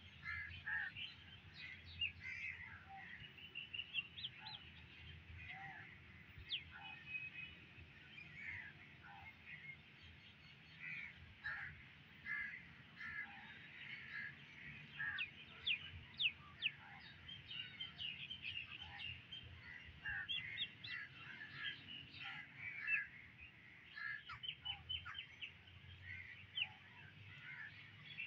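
A busy mix of birds chirping and calling, many short calls overlapping without a break.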